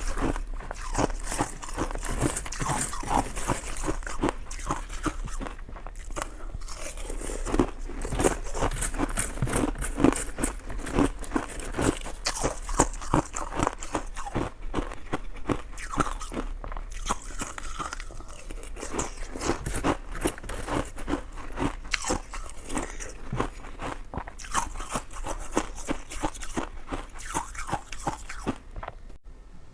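Close-up eating sounds of coconut sticky rice cake being bitten and chewed: a continuous run of quick mouth clicks and bites.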